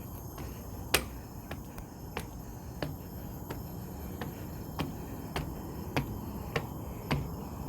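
Footsteps climbing stairs: a sharp step with a dull low thud about every 0.6 s, the first, about a second in, the loudest, over a steady hiss.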